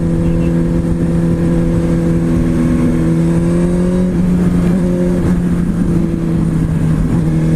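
Kawasaki Ninja ZX-6R (636) inline-four engine running at a steady speed while riding, its pitch dipping and shifting briefly about four seconds in before settling again.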